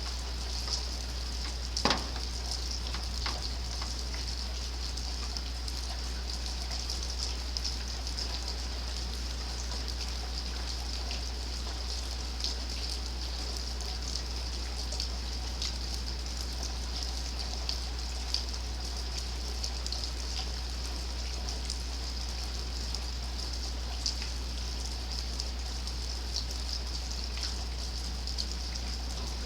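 Steady rain, a constant hiss full of small drop ticks, with one sharper tap about two seconds in and a steady low rumble underneath.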